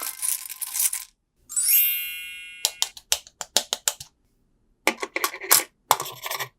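A bright chime that rings and dies away, followed by a quick run of about eight sharp clicks and then several short rattling bursts, like a coin or other small hard object dropping and tumbling.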